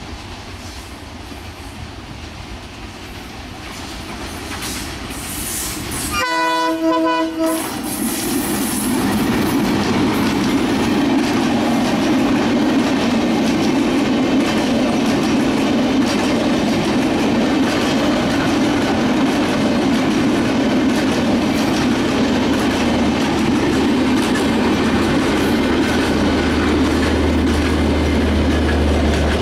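A WDM-3A diesel-electric locomotive approaching, growing louder, then sounding its horn in one blast of about a second, about six seconds in. After that comes the loud, steady rumble and wheel-on-rail clatter of the express's coaches running past.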